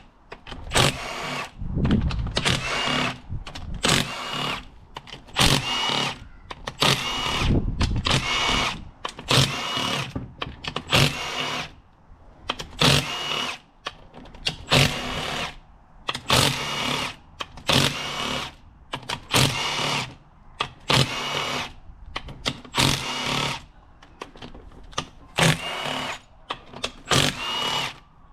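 Handheld power tool run in many short bursts of about a second each, with a whining pitch in each burst, as fasteners are worked during an engine teardown.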